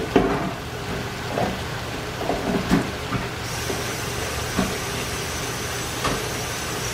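Cubed chicken breast sizzling in melted butter in a frying pan: a steady hiss with a few short pops scattered through it.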